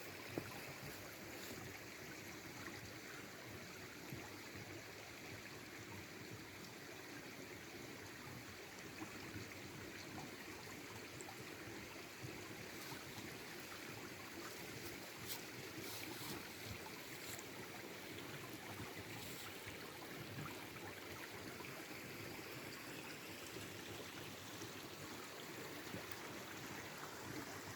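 Forest stream running steadily, a soft continuous trickle and burble of water.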